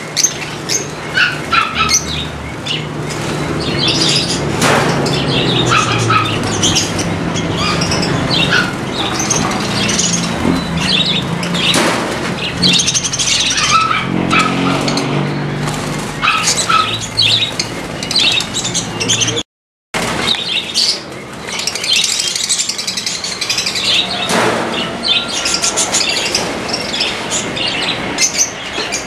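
Many small birds chirping and calling in short, overlapping notes, over a low steady hum that fades out about two-thirds of the way through. The sound cuts out completely for a moment about two-thirds of the way in.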